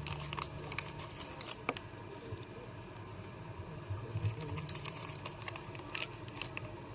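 Soft, scattered clicks and small rustles of someone handling and eating a piece of candy, over a low steady hum.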